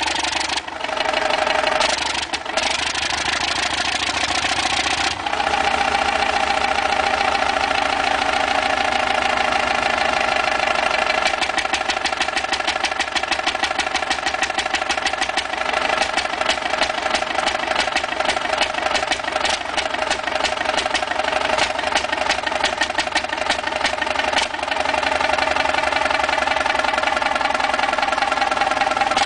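A large engine running steadily with a rapid, regular knocking beat. The sound changes abruptly about five seconds in and again near the end.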